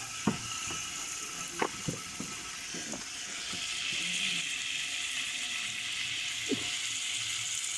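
Mustard oil heating in a cooking pot, sizzling with a steady hiss that grows louder about three seconds in. A few short clicks and knocks sound in the first three seconds.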